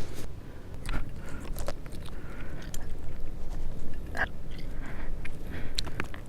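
A person chewing and biting food close to the microphone: irregular wet clicks and smacks of the mouth, over a steady low rumble.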